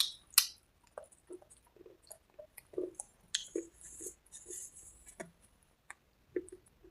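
Crunching and chewing of hard chalky cubes and dried red slate paste: two sharp snaps at the start, then irregular crisp crunches.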